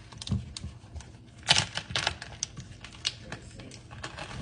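Irregular crackling and clicking of a crunch wrap being handled, its layer of nacho cheese Doritos crackling under the soft tortilla, with the sharpest cracks about a second and a half in.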